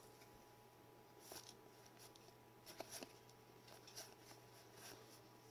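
Near silence with a low hum, broken by a few faint taps and rustles of trading cards being handled and set down.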